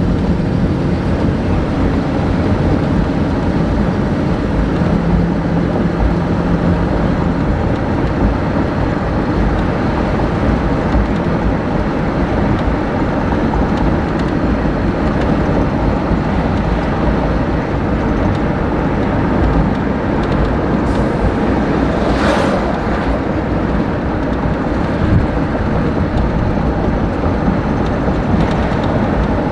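Steady low rumble of a moving vehicle, with a short rush of noise about twenty-two seconds in.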